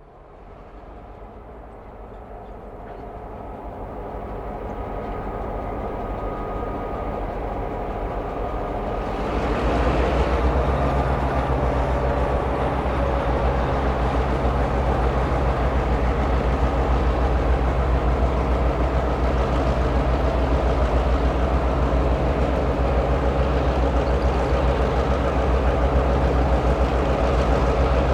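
Diesel-hauled freight train of an EMD GP38 and an EMD FP7A locomotive approaching and growing steadily louder. About ten seconds in, the locomotives' engine drone jumps up sharply as they reach the microphone, then stays as a steady loud engine and rail rumble.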